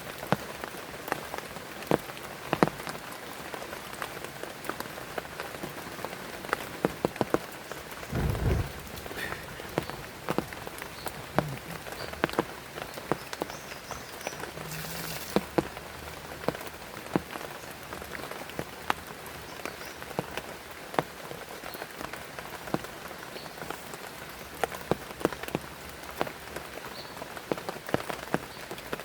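Steady heavy rain, with many single drops tapping sharply close by. A short low thump comes about eight seconds in.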